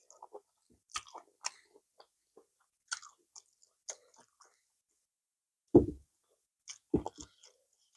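Close-miked eating of banku with okra stew: soft wet chewing with scattered mouth clicks and lip smacks. Two louder low thuds come about two-thirds of the way through.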